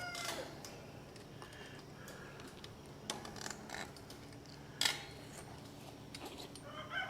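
A few faint, scattered metallic clinks and knocks from fence work, steel fence posts and wire being handled, the sharpest knock about five seconds in.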